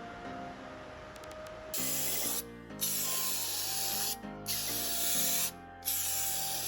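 Spraying onto an air filter during its cleaning: a loud hiss that starts about two seconds in and comes in long bursts with short breaks, over quiet background music.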